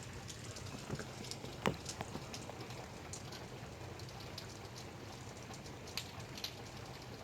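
Light rain falling: an even hiss of rain with scattered individual drops tapping, one louder drop about a second and a half in.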